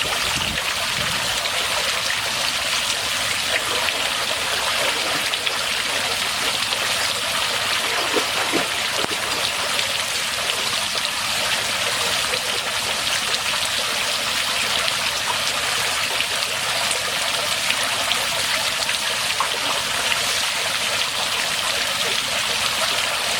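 Water from a small man-made waterfall splashing steadily into a pool.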